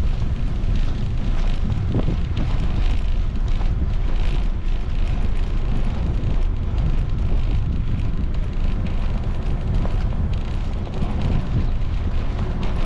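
Wind buffeting a GoPro's microphone while cycling: a steady, loud low rumble.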